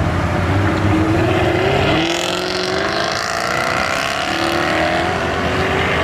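Jaguar F-Type R's supercharged V8 exhaust as the car pulls away from the meet, the engine note climbing steadily for about four seconds and then dropping off near the end.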